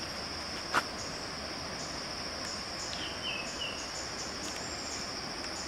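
Steady high-pitched drone of forest insects. A single short knock comes about a second in, and a few faint high chirps come around the middle.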